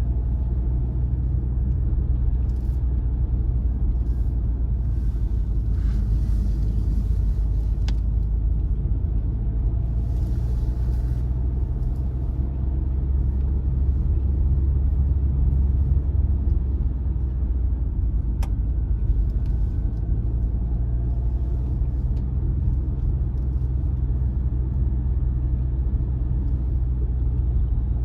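Car driving at a steady pace: an even low rumble of engine and tyres on the road, with a faint engine hum above it and a few light clicks.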